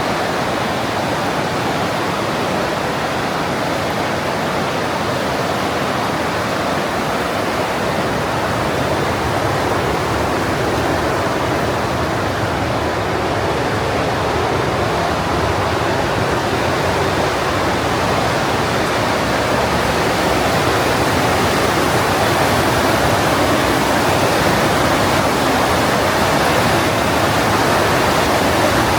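Partnach River rushing and falling through the narrow limestone gorge, a loud, steady roar of white water that grows slightly louder toward the end.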